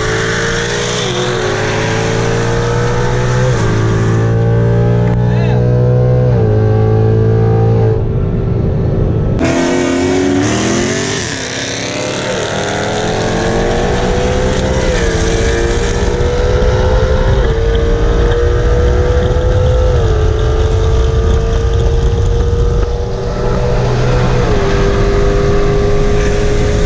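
A naturally aspirated car with a 10R80 ten-speed automatic accelerating at full throttle, heard from inside the cabin. The engine note climbs and then drops at each upshift, every two to three seconds. About ten seconds in the pitch falls briefly, then it pulls through several more upshifts.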